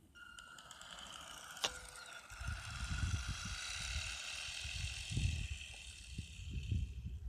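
ECX Torment RC truck's electric motor and gears whining under throttle on a high-speed run, the whine rising slightly in pitch, with a sharp click under two seconds in. From about two seconds in, an uneven low rumble runs beneath the whine.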